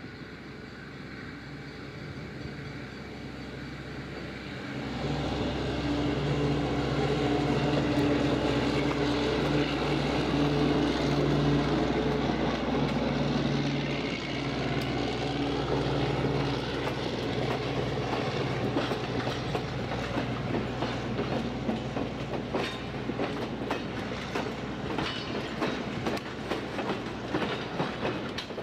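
A passenger train passing close by: the diesel locomotive's engine comes up with a steady hum as it draws level, then the coaches roll past with a run of wheel clicks over the rail joints that grows denser in the second half.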